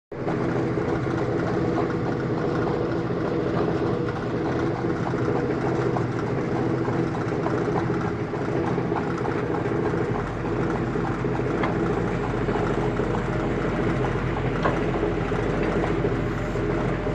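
Heavy diesel engine running steadily under work, with scattered light clicks and knocks.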